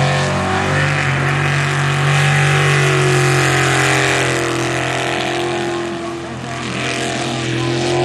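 Jet sprint boat engines running: a steady low engine note under a noisy roar of engine and jet. It dips briefly about six seconds in, then comes back.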